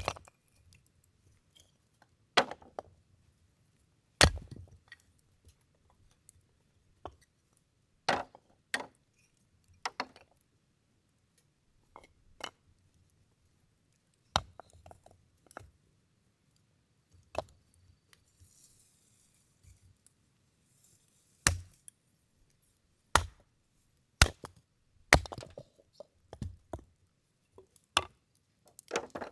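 Firewood being split by hand: a series of sharp chopping strikes into wood at irregular intervals of one to several seconds, with lighter knocks between them.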